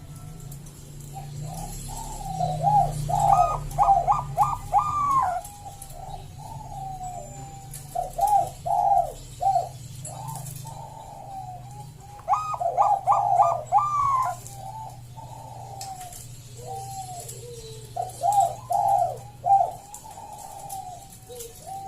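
Zebra dove (Bangkok-strain perkutut) cooing: about four phrases of quick rolling coos, with quieter calling between them. A low steady hum runs underneath.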